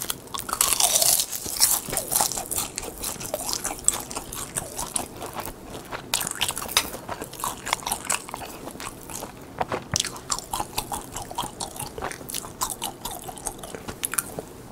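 Crisp seasoned laver sheets (gim) being bitten and chewed close to the microphone. A loud crunching bite in the first second or so, then rapid crackly chewing.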